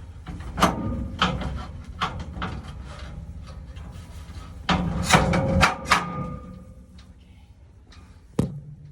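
Irregular knocks and clattering bangs, a cluster of the loudest about five to six seconds in and a single sharp knock near the end.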